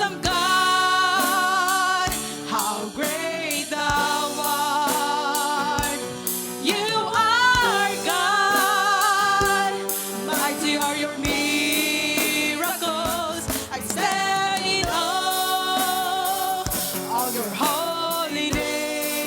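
Live gospel worship song: voices singing long held, wavering notes over keyboard or guitar chords, with a drum kit keeping the beat.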